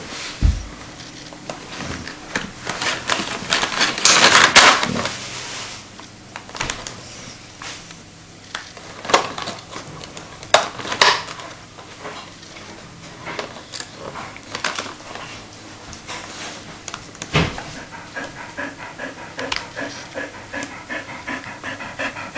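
Bearded collie panting, with scattered crackles and clicks and a louder noisy burst about four seconds in.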